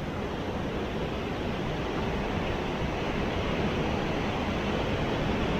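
Waterfall's falling water rushing as a steady, even noise, growing slightly louder.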